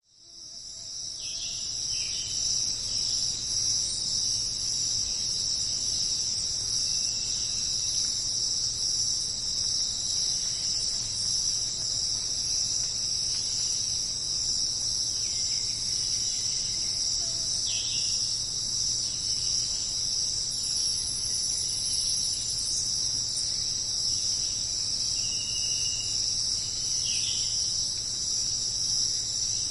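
A steady, dense chorus of crickets chirping, fading in over the first couple of seconds. A few faint, short bird calls come through now and then.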